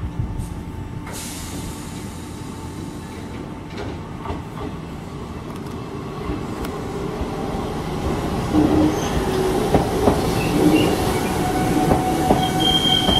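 Hanshin 8000-series train pulling into the station. Its running noise grows louder over the second half, with brake and wheel squeal coming in at several pitches and a strong, high, steady squeal starting near the end as it slows.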